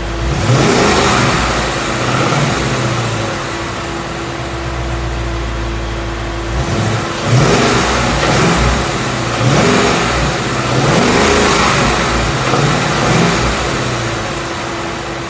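2016 Mustang GT's 5.0-litre Coyote V8 being revved from idle: it climbs about half a second in, eases back, then is blipped several times in a row through the second half before settling to idle again.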